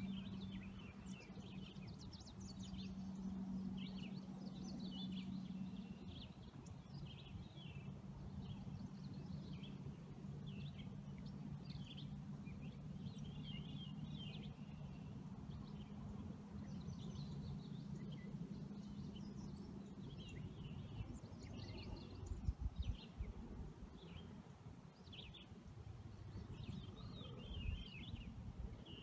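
Birds chirping and twittering in short, scattered calls over a low steady hum, with a couple of brief low thumps about two-thirds of the way through and near the end.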